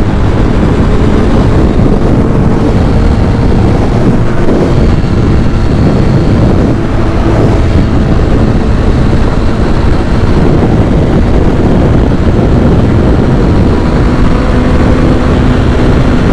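Kawasaki ZX6R sport bike's inline-four engine running steadily under way, mixed with loud wind noise on the microphone.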